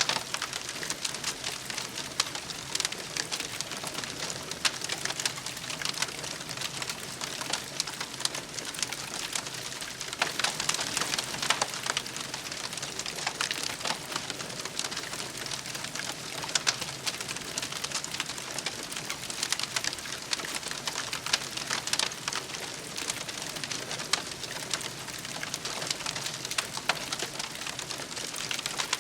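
Wood campfire burning, a steady crackle full of irregular sharp pops and snaps.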